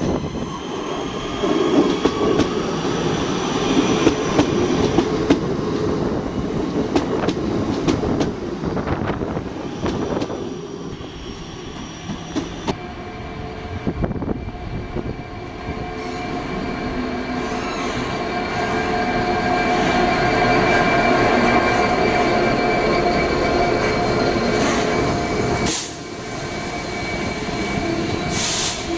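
Train moving through the station: a busy clatter of wheels over rail joints and pointwork in the first half, then a steady whine with several held tones that swells and fades in the second half.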